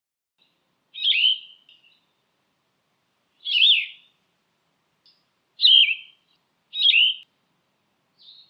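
Recorded bird calls: a short, high call note given four times, about a second in and then every one to two seconds, with a fifth just starting at the end.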